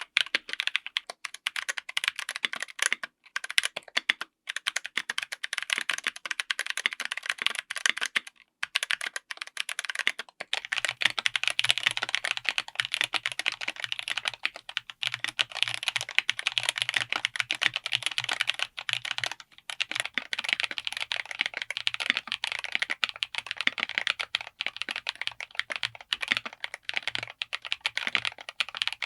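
Continuous fast typing on a mechanical keyboard fitted with tactile switches, keystrokes clacking in a dense run with a short break about eight seconds in. From about ten seconds in, a low steady hum sits under the typing.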